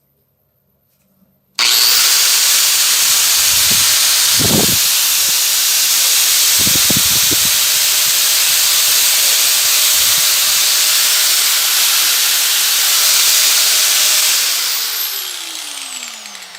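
Makita 4½-inch angle grinder switched on about a second and a half in, running at full speed with a steady high whine, then switched off and spinning down with falling pitch near the end. It is being test-run after a new armature, replacing one with a burnt coil, and new carbon brushes.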